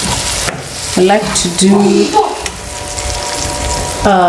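A pot of tomato paste and onions sizzling and frying, with stirring. The sizzle is a steady hiss throughout.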